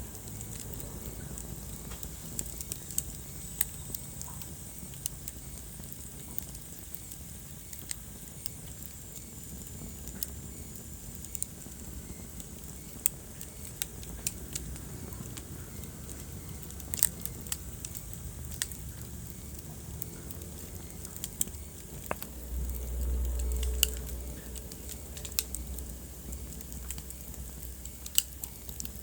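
Wood fire burning in a fireplace: irregular sharp crackles and pops over a steady low rumble of flame. About three-quarters of the way through, the low rumble swells louder for a second or two.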